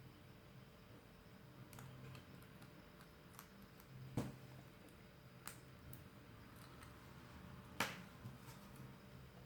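Faint, scattered small clicks and taps of tools and phone parts being handled while a smartphone is taken apart, about half a dozen in all, the two loudest about four seconds in and near eight seconds, over a low steady hum.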